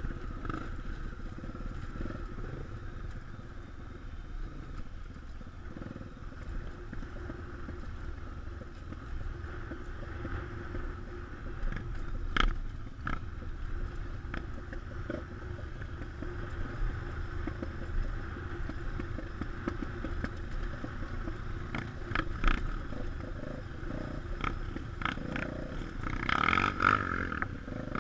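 Trail motorcycle running over rough ground, with a steady low rumble, scattered knocks and rattles, and a louder stretch of engine noise near the end.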